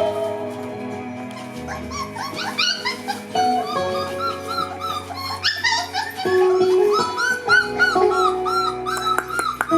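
Young Border Collie puppies, about a month old, whimpering and yipping in a rapid run of short high-pitched squeaks, starting about two seconds in, over background music with long held notes.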